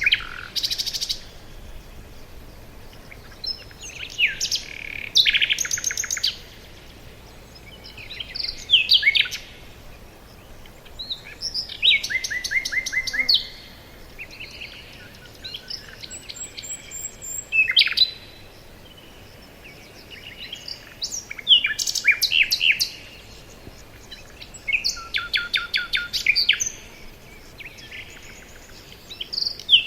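Songbirds singing: short phrases of quick repeated chirps and trills every few seconds, with quieter gaps of faint background between them.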